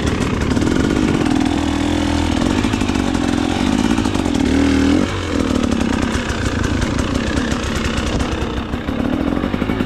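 2024 KTM 300 XC-W single-cylinder two-stroke dirt bike engine running under load on a trail, the revs rising and falling with the throttle, with one sharp rise about five seconds in that drops off right after.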